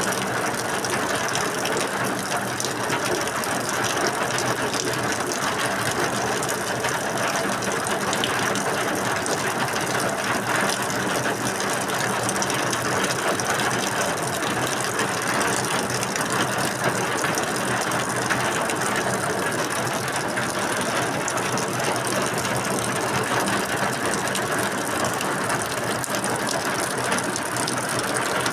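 Steady rain falling, a dense, even sound of countless drops that holds constant with no break.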